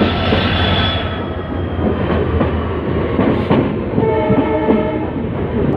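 Passenger train running on the rails, heard from inside the coach: steady rumble with irregular wheel clicks over the rail joints. A brief steady tone sounds about four seconds in, lasting about a second.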